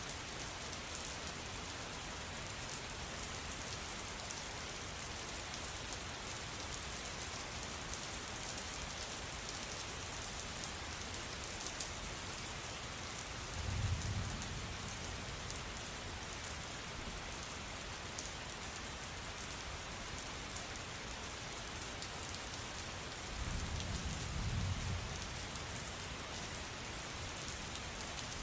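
Steady rain falling, an even hiss of many drops. Twice, about ten seconds apart, a short low rumble rises under it.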